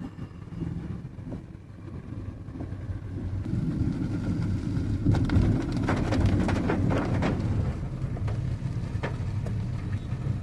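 Low, steady road and motion noise of a vehicle travelling in the rain, growing louder a few seconds in, with a flurry of sharp taps near the middle and one more near the end.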